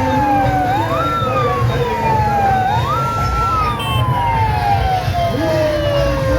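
Several sirens wail at once, overlapping. Each one climbs quickly in pitch and then slides slowly down, again and again, over a steady low rumble of traffic and crowd.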